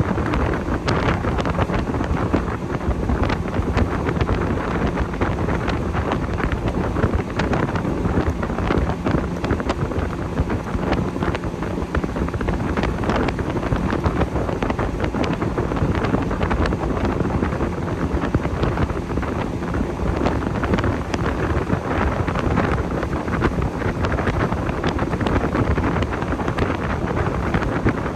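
Wind buffeting the microphone on a moving motorboat, over the steady drone of the boat's motor, with frequent short knocks and splashes from the hull running through waves.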